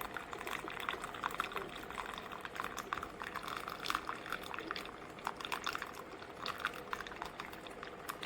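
Ninja Pod & Grounds single-serve coffee maker brewing: hot coffee streams and sputters into the cup with irregular gurgles and drips over a steady hum.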